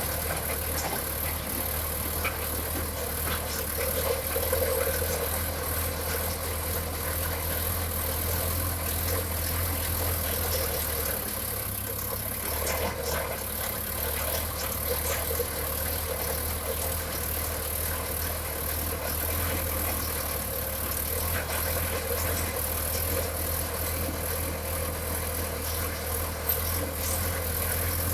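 Tractor engine running steadily under load, driving a ground-drilling rig, with light rattling and clicking over the engine hum.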